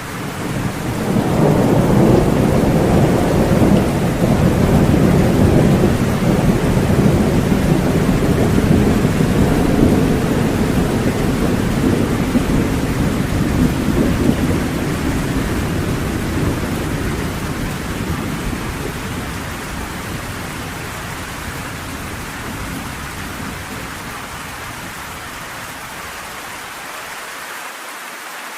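A long roll of thunder over steady rain: the rumble starts suddenly, stays loud for about twelve seconds, then dies away slowly, leaving the rain.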